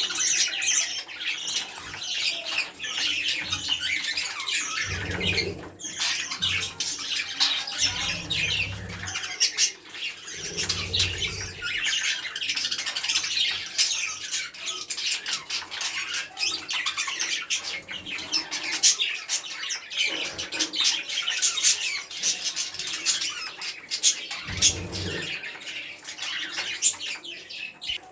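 Budgerigars chattering and squawking nonstop, a dense mix of warbles and sharp clicks, with a few brief low rumbles.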